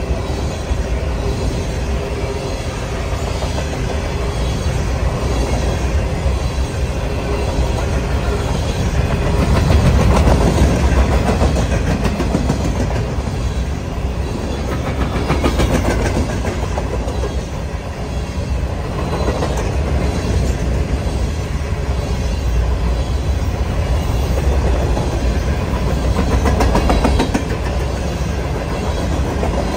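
Empty covered hopper cars of a freight grain train rolling past at speed: a steady, loud rumble of steel wheels with a rhythmic clickety-clack over the rail joints.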